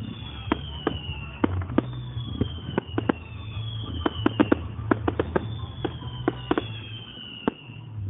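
Fireworks display going off: a rapid, irregular run of sharp bangs and cracks, some in quick clusters, with several whistles falling slowly in pitch, over a low rumble.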